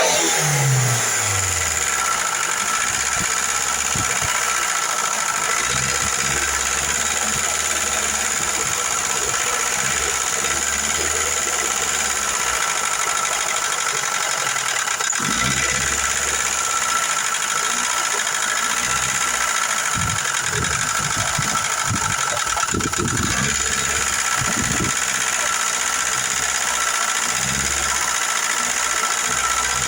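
Car engine dropping back from a rev in the first second, then idling steadily. The engine is being run with a light oil added to quiet noisy hydraulic lifters.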